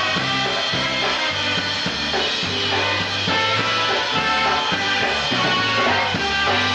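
Live polka band playing an instrumental passage, with drum kit and bass keeping a steady beat under the melody instruments. A long note is held near the end.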